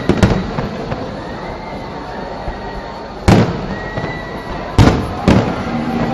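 Fireworks shells bursting overhead: one loud bang at the start, then three more in the last three seconds, the last two half a second apart, each followed by a brief echoing rumble.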